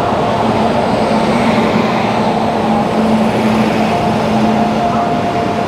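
Indian Railways express pulling into a station platform: the electric locomotive passes close, then its coaches. A steady hum with a few held tones over the running noise of wheels on rails.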